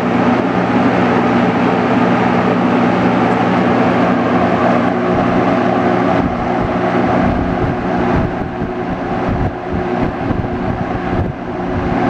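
1974 Frigid XG-20 box fan running on high speed: a steady rush of air from the blades over the hum of its Westinghouse motor. From about six seconds in, an uneven low rumbling joins it.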